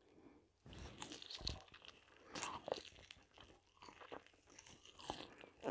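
A person biting into and chewing a zucchini fritter close to a clip-on microphone: faint mouth sounds in short, irregular spells.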